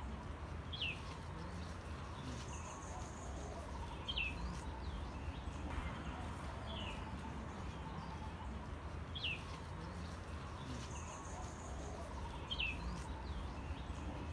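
A bird calling outdoors, giving about five short, falling chirps two to three seconds apart, over a steady low rumble.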